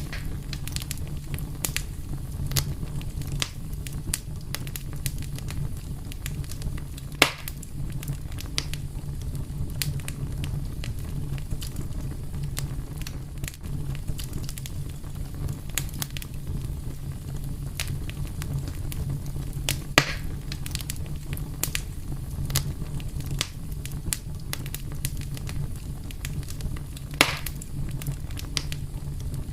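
Wood fire burning with a steady low rumble and frequent small crackles, with three louder pops about 7, 20 and 27 seconds in.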